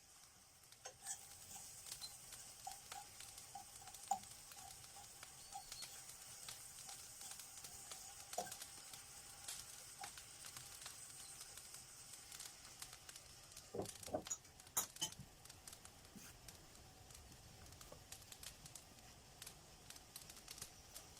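Wood fire crackling in an outdoor fireplace: faint, irregular pops and snaps over a soft hiss, with a cluster of louder cracks about two-thirds of the way through.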